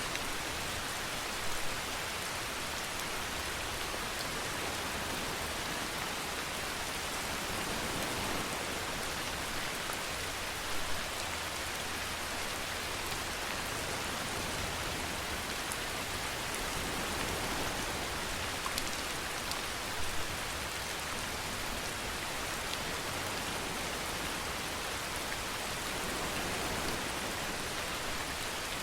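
Steady rainfall, an even hiss of drops, with a brief louder spatter about every nine or ten seconds.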